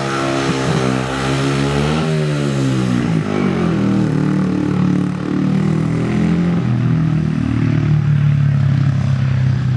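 Single-cylinder speedway motorcycle engine running hard around the track. Its pitch climbs to a peak about two seconds in, then falls away and wavers, and settles into a steadier, lower note near the end.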